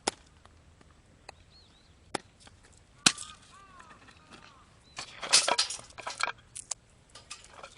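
Split firewood sticks being handled: a few sharp wooden knocks, then a busier clatter and rattle of sticks about five seconds in.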